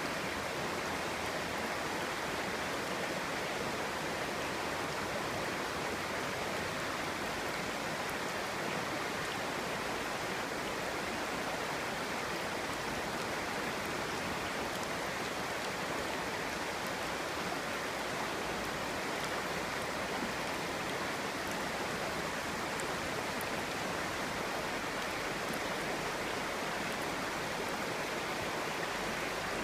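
Clear stream water flowing and babbling over rocks, a steady, even rush of water.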